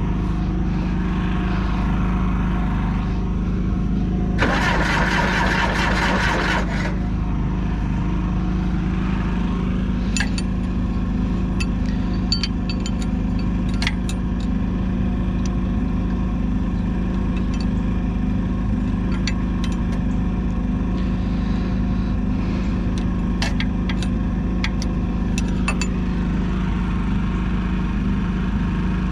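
John Deere 450C bulldozer's diesel engine running steadily, with a louder surge of noise for about two seconds early on and scattered sharp metallic clicks later.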